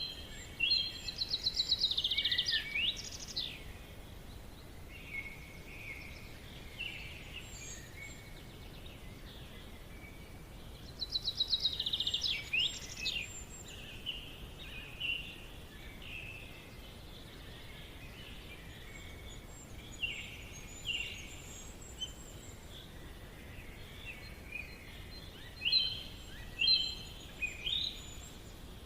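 Songbirds singing in a forest. A fast trilled phrase ending in quick falling notes comes twice, with short chirps from other birds between, over a faint steady background hiss.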